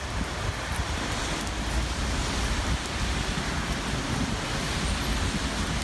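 Steady rain falling on wet pavement, an even hiss with a low rumble underneath.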